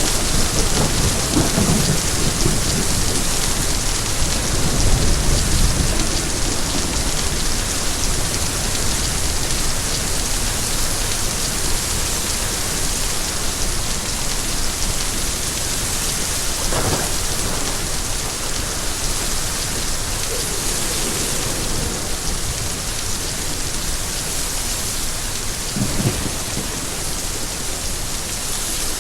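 Steady heavy rain, with low rolling rumbles of thunder during the first several seconds and softer rumbles later on.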